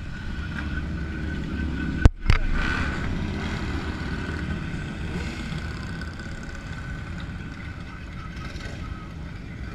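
Motorcycle engines running with a steady low rumble, with a sharp crack about two seconds in and a second one just after.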